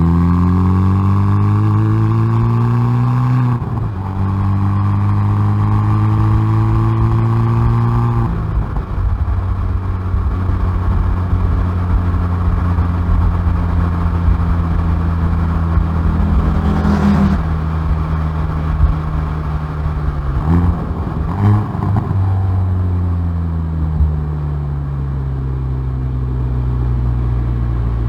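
Exhaust of a Hyundai i30N Performance's 2.0-litre turbocharged four-cylinder, heard close up at the rear bumper. The engine climbs in pitch under acceleration, upshifts about three and a half seconds in and pulls again to about eight seconds. It then runs at a steady lower pitch, with a couple of short blips around twenty seconds in.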